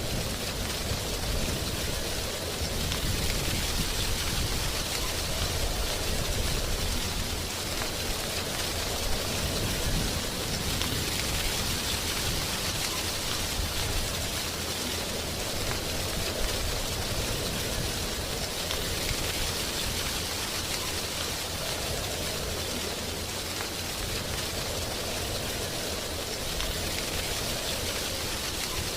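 Wind blowing through dry autumn tree leaves: a steady rustling hiss that swells and eases in slow gusts, over a low rumble of wind.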